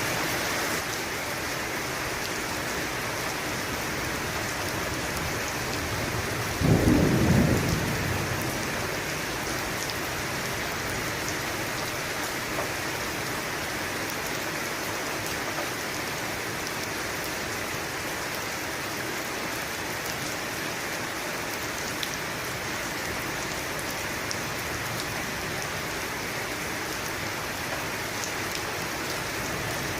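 Steady rain with one thunderclap about six and a half seconds in, a loud low burst that rumbles out over a second or two.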